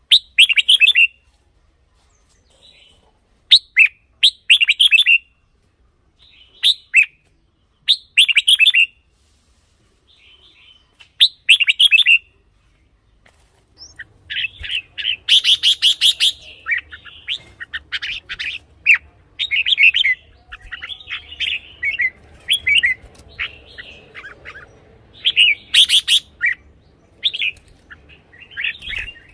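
Red-whiskered bulbul singing: short, bright whistled phrases repeated every couple of seconds, then, about halfway, a denser unbroken run of song and chatter over a faint low background rumble.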